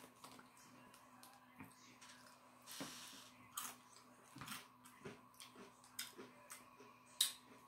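Faint crunching and chewing of potato chips: short, irregular crisp cracks a few times a second, over a faint steady hum.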